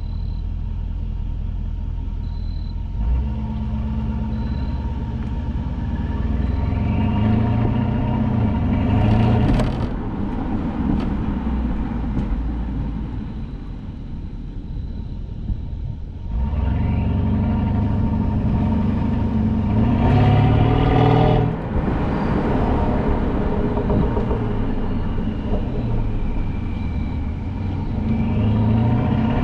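Mercedes-Benz S550's twin-turbo V8 through a resonator-deleted exhaust, droning low and then revving up twice under acceleration, its note climbing in pitch and dropping off abruptly each time, with another rise beginning near the end.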